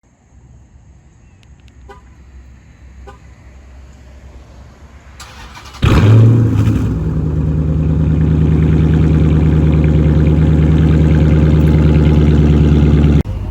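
A car engine starting about halfway through with a loud flare, then running at a steady idle until it cuts off abruptly near the end.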